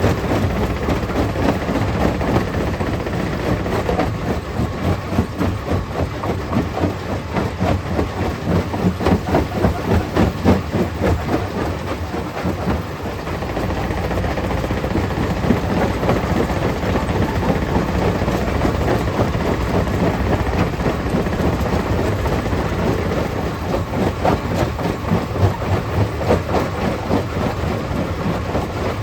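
Stone crusher plant running and crushing rock: a steady machine rumble under a dense, irregular clatter of stones being broken and moved.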